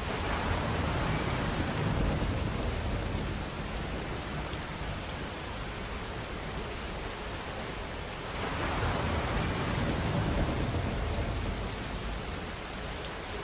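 Steady rain heard from a camper van. It swells louder twice, once at the start and again about eight seconds in, each time with a low rumble underneath.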